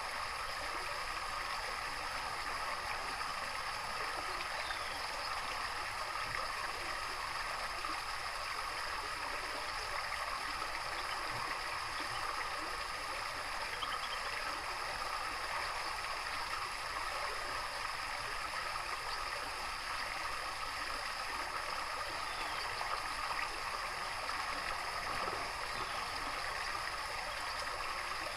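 Running water flowing steadily, an even gurgling rush with no change throughout.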